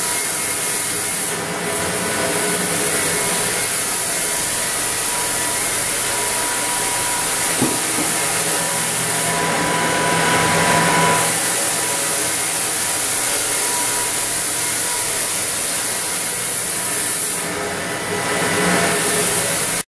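Floor sanding machine with 80-grit paper running steadily over a hardwood floor, sanding off dried gap filler: a steady motor whine under a grinding hiss. It eases off briefly twice, about a second and a half in and near the end.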